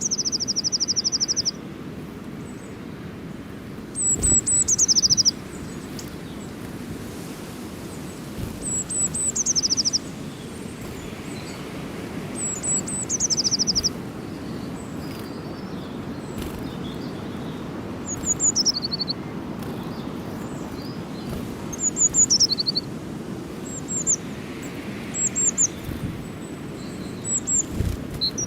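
A songbird singing short, high phrases, about every four seconds: each is a few quick falling notes that run into a rapid trill. The later phrases are shorter. A steady low rumble sits under the song throughout.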